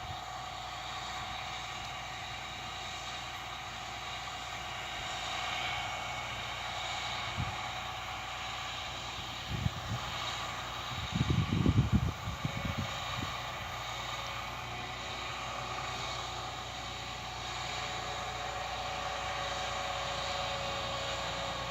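Claas Lexion combine harvester running steadily, a mechanical drone with several steady tones. A few low thumps come about halfway through.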